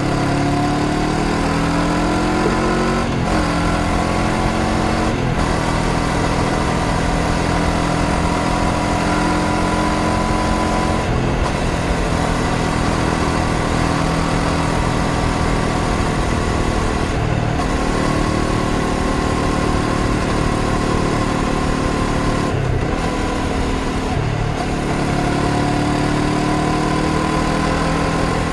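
Honda CBR500R's 471 cc parallel-twin engine running under way, its pitch climbing and easing with the throttle. About six brief breaks in the engine note come as gears are changed, over a steady low rush of wind.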